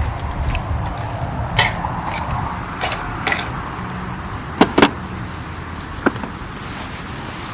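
Wood campfire crackling: a handful of sharp pops and snaps, two close together a little past the middle, over a steady low rumble.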